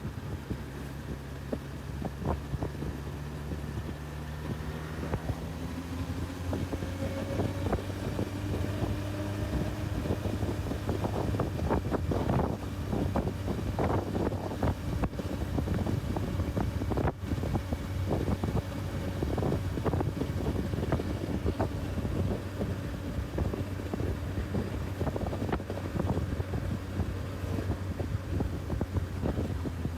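Honda CB1000R's inline-four engine running under way, its pitch rising a few seconds in and then holding steady at cruising speed, with wind buffeting the microphone.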